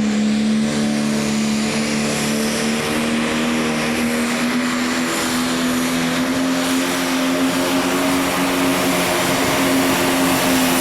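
Diesel engine of a competition pulling vehicle running at high revs under load, with a broad noisy roar. Its pitch climbs slowly.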